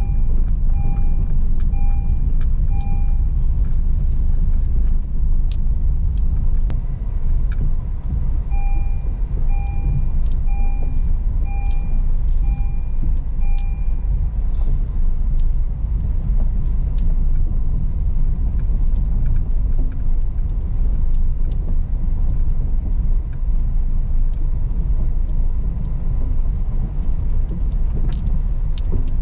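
Car driving slowly over a rough rocky road: a steady deep rumble of tyres and suspension with scattered knocks and rattles. A dashboard warning chime beeps about twice a second for a few seconds at the start, and again for about five seconds partway through.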